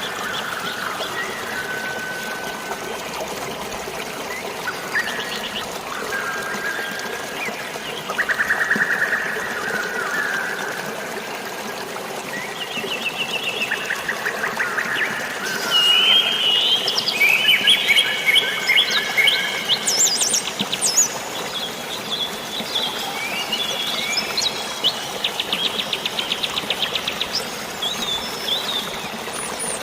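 Many birds chirping, whistling and giving rapid trills, busier in the second half, over a steady hiss of drizzling rain and flowing water.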